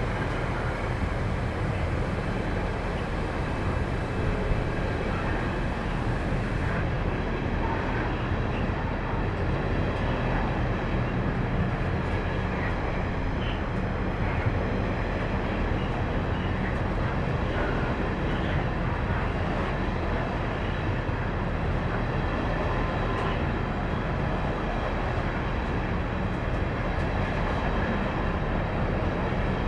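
Freight train passing, a steady rumble of wagons over the rails with a few faint squeaks.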